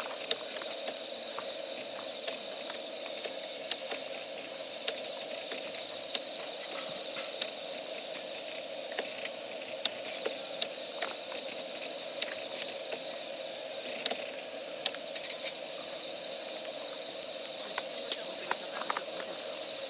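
Wood fire burning in a fire stand: a steady hiss with frequent small, sharp crackles and pops scattered throughout. A thin, steady high-pitched tone runs under it.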